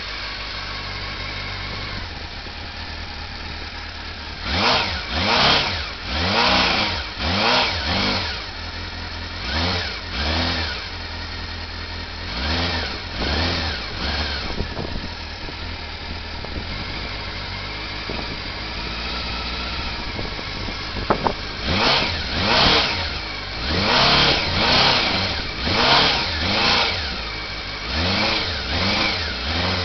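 1989 Honda CB-1's inline-four engine idling through a Triumph Speed Triple silencer and being revved again and again: quick throttle blips from about four seconds in, more around ten to fourteen seconds, and a longer run of revs from about twenty-one seconds in, each rising and falling back to idle.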